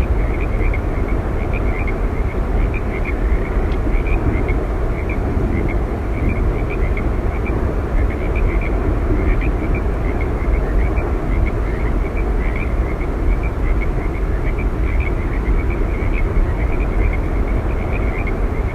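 Steady roar of Yosemite Falls' falling water, even and unbroken, with short faint chirps repeating quickly throughout.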